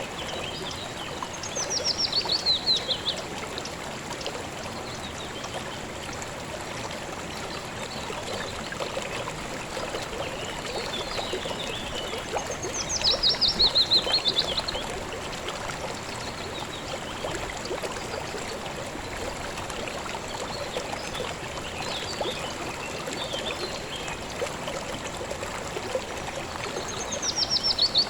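Stream water running steadily. Three times, about thirteen seconds apart, a high, rapid trilling call falls in pitch over about a second and a half and stands out above the water.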